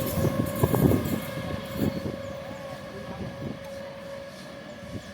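Sealdah–Jangipur MEMU electric train running past, its wheels knocking irregularly over the rail joints under a steady whine. The sound fades as the train moves away.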